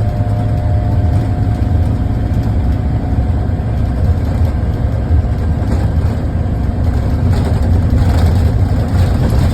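Diesel engine of a Scania K280 Irizar i4 bus running with a steady low drone, a little louder near the end.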